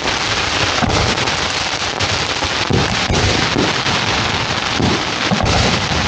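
Fireworks going off close by in quick succession: a dense, continuous crackle of many small reports, with wind rumbling on the microphone.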